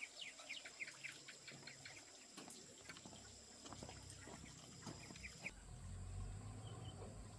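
Birds chirping, many short, quick falling chirps one after another. About five and a half seconds in the chirping stops abruptly and a faint low hum takes over.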